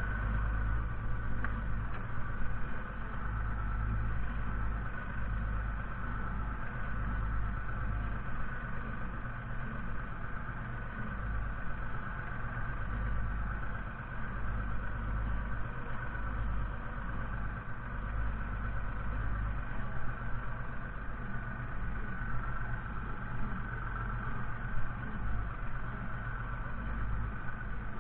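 Fiatagri 130-90 tractor's diesel engine running steadily: a deep, even rumble with a steady high whine above it.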